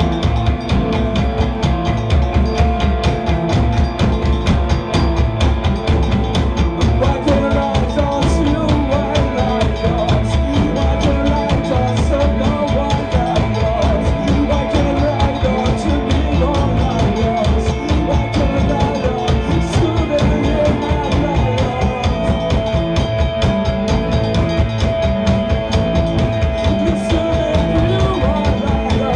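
Live rock band playing an instrumental jam: a drum kit beating steadily and busily under bass and guitars. A single note is held for several seconds early on and again for the last several seconds.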